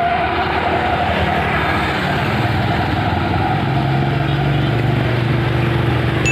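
A steady vehicle-engine sound running, with a low hum that joins it about three and a half seconds in.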